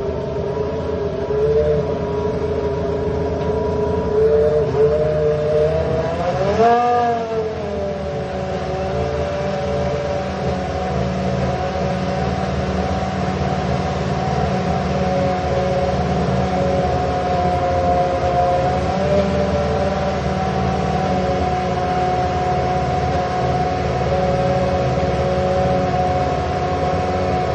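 3.5-litre Renault V10 engine running at a steady fast idle while it warms up. About seven seconds in, the throttle is blipped once and the pitch rises and falls back, then the engine settles to an even note again.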